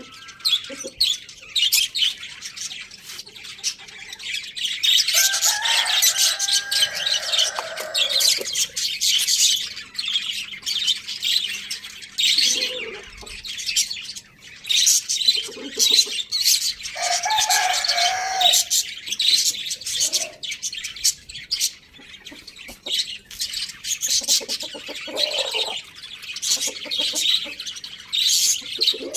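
A flock of small birds chirping constantly and densely. A rooster crows twice in the middle of it, once about five seconds in and again around seventeen seconds.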